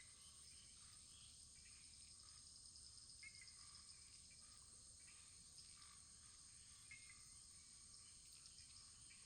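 Faint wood fire burning low: a soft steady hiss with a few small crackles.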